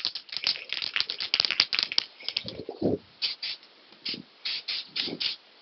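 An aerosol spray-paint can is shaken hard, its mixing ball rattling in quick strokes for about two and a half seconds, then in a string of short, separate bursts. It is being shaken because the paint is not spraying properly and needs more mixing.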